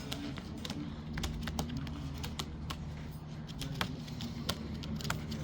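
Caged pigeons moving and pecking: irregular light clicks and taps, several a second, over a low steady hum.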